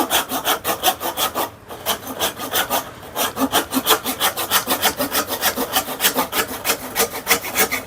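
Hand saw cutting through an old wooden hammer handle in quick, even back-and-forth strokes, with a brief pause about one and a half seconds in.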